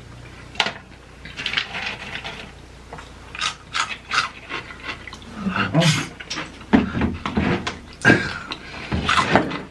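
Close-up crunching and chewing of cheese-covered Takis rolled tortilla chips: a long irregular run of sharp crunches.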